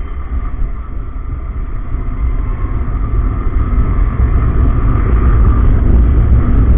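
Wind rumbling on the microphone of a moving motorcycle, building steadily louder as it picks up speed, with the Yamaha R15 M's single-cylinder engine running underneath.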